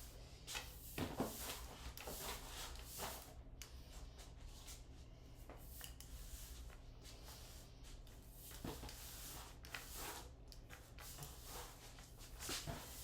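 Faint scattered rubbing and light knocking sounds over a steady low hum.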